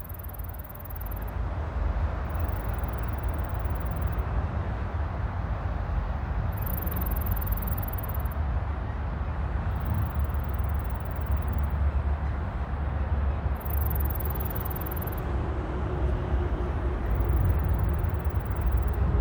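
Night insects calling: a very high-pitched chirring that comes in repeated bouts of about two seconds, with short pauses between them, over a steady low rumble.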